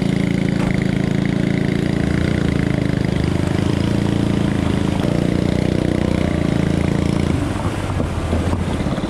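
A Coleman mini bike's small single-cylinder four-stroke engine running steadily at speed, with wind on the microphone. About seven seconds in the engine note drops to a lower, quieter run.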